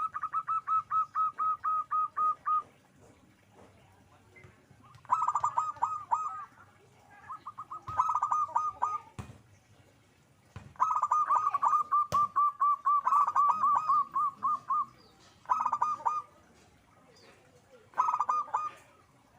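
Zebra dove (perkutut) calling: bouts of rapid, evenly repeated staccato notes, about ten a second, broken by short pauses.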